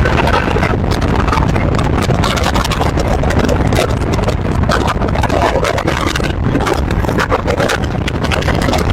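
Wind and road noise of a car driving at highway speed, with wind buffeting and crackling on the microphone.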